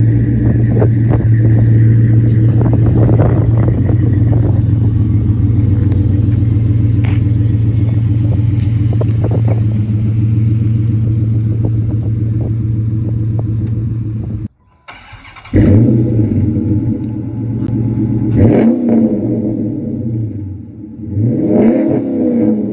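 Dodge Challenger Hemi V8 with an aftermarket exhaust idling steadily and loudly. After a sudden break about two-thirds of the way through, it is blipped twice, the pitch rising and falling each time.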